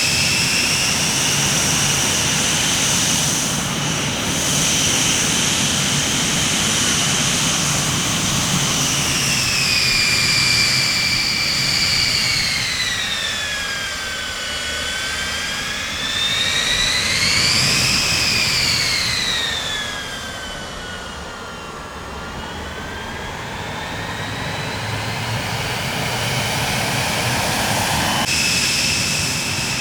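Jet aircraft engines whining over a low rumble. The high whine sweeps down in pitch, rises to a peak about eighteen seconds in, falls again and climbs back, and the sound changes abruptly near the end.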